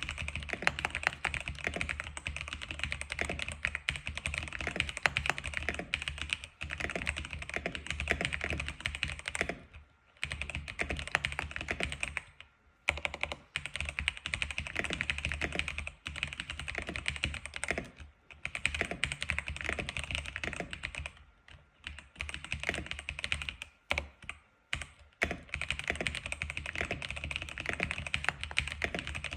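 X87 keyboard being typed on continuously, a fast run of key clicks broken by a few brief pauses.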